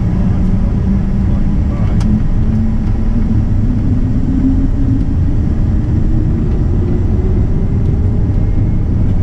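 Gulfstream G550 jet with its Rolls-Royce BR710 turbofans at takeoff power: a loud, steady rumble with a low tone that slowly rises in pitch. One faint click about two seconds in.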